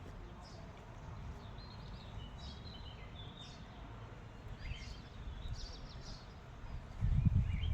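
Birds chirping, with short calls scattered throughout over a faint, steady low rumble. A louder low rumble comes in about seven seconds in.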